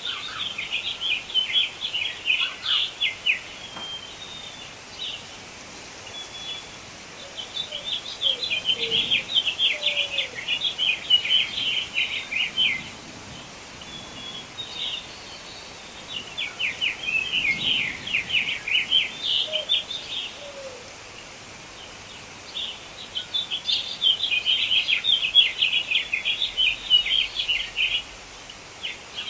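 Songbird singing in four long bursts of rapid, high chirps, with pauses of a few seconds between them, over a faint steady background hiss.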